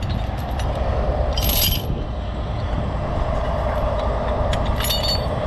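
Heavy diesel truck engine running steadily during a wrecker recovery, with short metallic clinks, like chain or rigging, about a second and a half in and again near the end.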